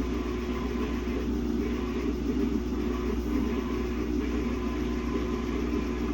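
Samsung WA50R5200AW top-load washing machine running with a steady motor hum and a faint swish that repeats every half second or so, while it works a single pair of pants, a very imbalanced load.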